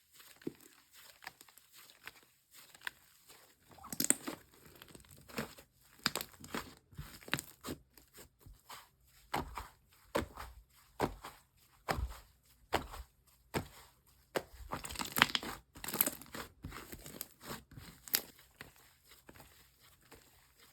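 Slime being squeezed and stretched by hand, giving irregular crackling and popping clicks, with a louder cluster about four seconds in and another near three-quarters of the way through.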